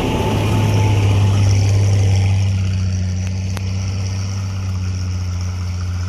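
Truck engine running close by, a loud, steady low hum over a wash of mechanical noise.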